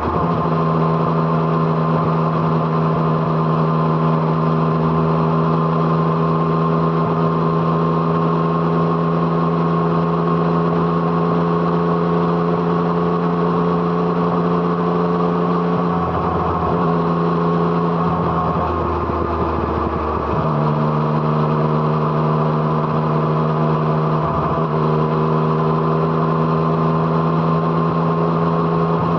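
Yamaha MT-09's three-cylinder engine through an Arrow Thunder aftermarket exhaust, running at steady revs while riding. The throttle is briefly closed and reopened a few times a little past halfway and again near three-quarters through, the note dropping away and then returning.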